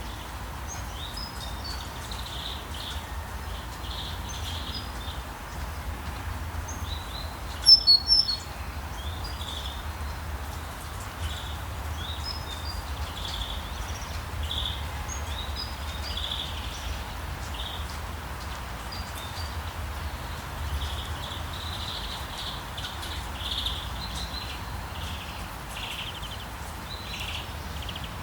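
Small birds chirping again and again over a steady hiss of rain and a low background rumble, with a loud, bright burst of chirps about eight seconds in.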